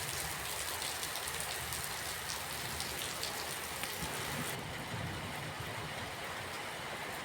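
Steady rain falling, with many individual drops and a low rumble underneath. About four and a half seconds in, the high hiss of the rain drops away suddenly, leaving a duller sound.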